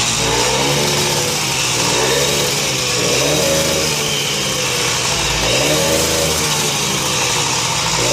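Honda Hobbit moped's rebuilt two-stroke engine running smoothly after a start, revved up and down repeatedly on the throttle.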